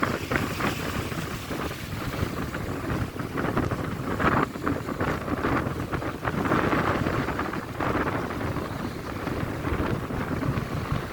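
Wind and rain, the wind rumbling on the microphone in gusts that swell and fade every second or two.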